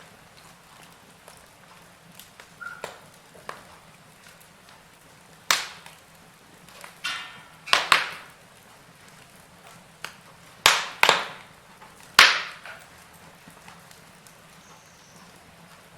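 Wood fire in a fireplace crackling, with sharp irregular pops a second or two apart, the loudest cluster between about five and thirteen seconds in, over a faint steady low hum.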